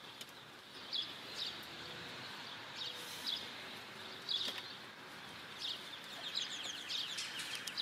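Small birds chirping outdoors: short, high, falling chirps about once a second, with a quicker run of chirps near the end, over a steady hiss of outdoor background noise.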